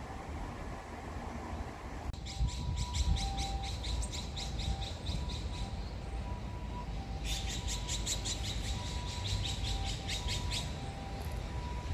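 A bird calling in a rapid string of sharp, high chirps, about five a second, in two runs: the first starts about two seconds in, the second past the middle. Low wind rumble on the microphone runs beneath.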